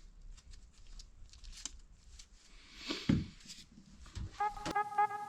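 Small clicks and rustles of parts being handled, with a heavier knock about three seconds in; background music with a steady beat starts near the end.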